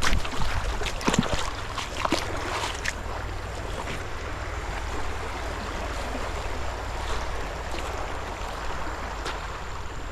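Footsteps crunching and snapping through woodland debris, with several sharp cracks in the first three seconds. Under them runs a steady rushing noise and a low wind rumble on the microphone.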